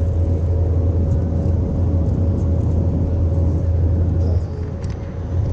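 Airliner cabin noise: a steady low rumble of the engines and airflow with a constant hum above it, easing slightly for a moment near the end.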